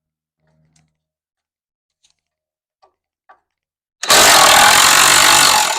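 Impact wrench running in one short burst of about a second and a half near the end, spinning off a rusted bumper-bracket bolt, after a few faint clicks of the socket being fitted.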